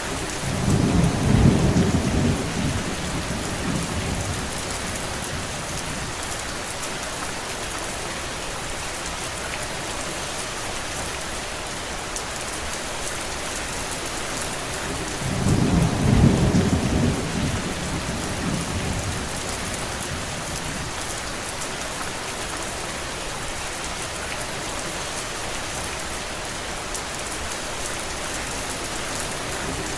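Steady heavy rainfall. A low rumble swells up and fades over a few seconds twice, about a second in and again halfway through.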